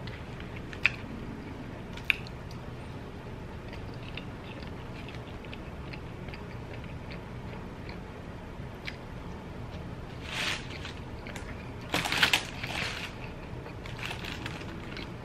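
Close-miked eating of fried fast food: chewing with wet mouth clicks and small crunches. There are sharp clicks about one and two seconds in, and a louder crackling burst around ten and twelve seconds in.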